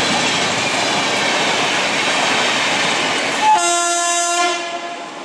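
Express train coaches passing at speed: a steady rush and rattle of wheels on rail, which falls away as the last coach clears about four and a half seconds in. About three and a half seconds in, a locomotive horn sounds one blast of about a second.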